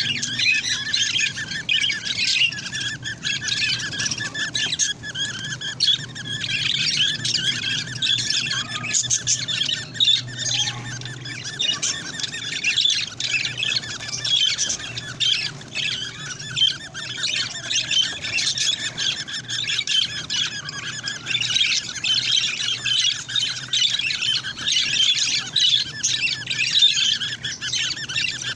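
Parrot chicks squawking and chattering without a break, many high-pitched calls overlapping.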